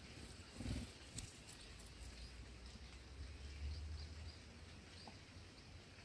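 Faint outdoor ambience with brief, soft high bird chirps scattered through it. A low thump comes just under a second in, and a sharp click follows about half a second later.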